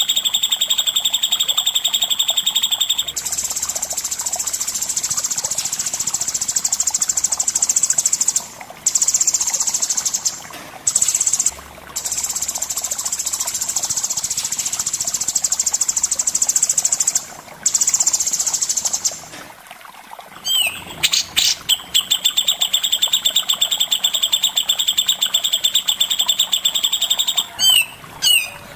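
A songbird's very fast, buzzy rattling trill (the 'besetan' prized in masteran recordings), kept up in long runs. It breaks off briefly a few times, pauses for about two seconds past the middle, then resumes lower in pitch.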